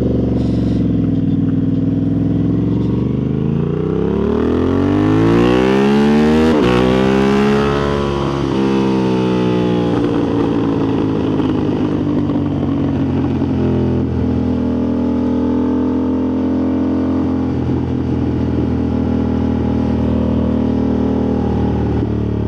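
Motorcycle engine accelerating, its pitch climbing for a few seconds before a gear change about six seconds in. After that the pitch eases down and the engine runs steadily at cruising speed.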